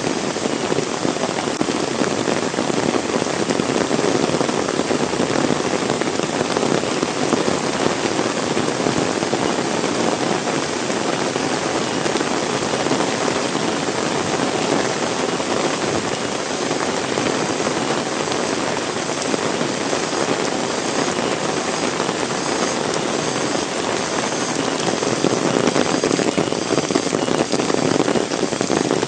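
Heavy rain pouring steadily, a dense patter of drops striking the ground and surfaces, growing a little heavier near the end.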